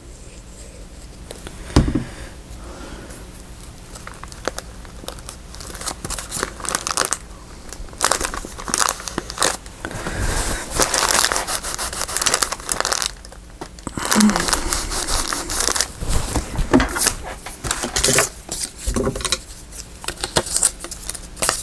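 Paper crinkling and rustling in irregular bursts as sheets are handled, with a single thump about two seconds in.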